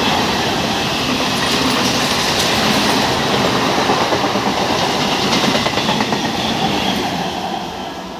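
EMU local train passing through the station at speed: a steady rush of wheel and rail noise with clattering over the rail joints, fading near the end as the last coach goes by.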